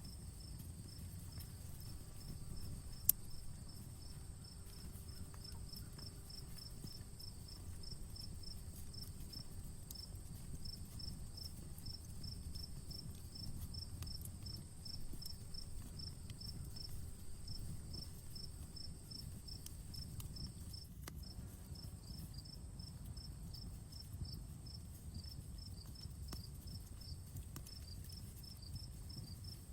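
Crickets chirping steadily, several chirps a second, over a continuous higher insect trill, while a campfire crackles with a low rumble and scattered small pops. One sharp pop comes about three seconds in.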